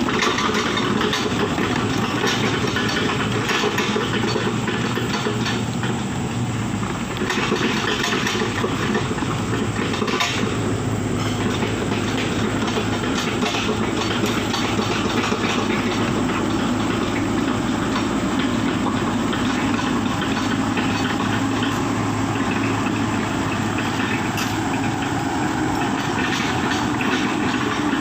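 A heavy diesel engine running steadily under load, with scattered rattles and clanks over it.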